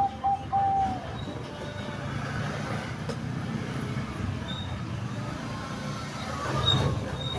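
A zebra dove (perkutut) finishes a cooing phrase in the first second: a few short, quick notes at one pitch, ending on a longer drawn-out note. After that there is a steady low background rumble with a few faint, high chirps.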